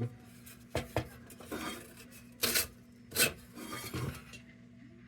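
Short metal clinks and scrapes from a tinplate Dietz No.1 Blizzard lantern being handled and worked on, about six separate touches spread over a few seconds.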